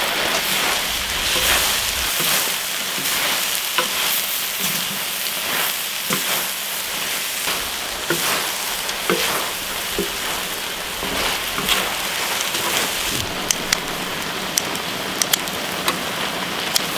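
Spicy webfoot octopus and vegetables sizzling steadily in a wide pan while a wooden spatula stirs and scrapes them, with occasional knocks. Near the end come a series of sharp metal clicks from kitchen scissors and tongs cutting the octopus.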